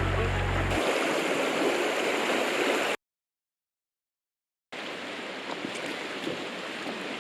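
Steady rushing of river water. Music with a low bass line ends about a second in, and the sound cuts out completely for nearly two seconds in the middle before the water noise returns with a few faint ticks.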